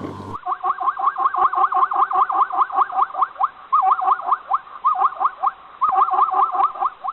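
An animal calling in a rapid series of short rising chirps, about five a second, in runs broken by brief pauses.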